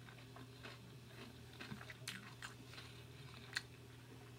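Close-miked chewing of carne asada fries with soft, wet mouth clicks scattered through it. One sharper click comes about three and a half seconds in.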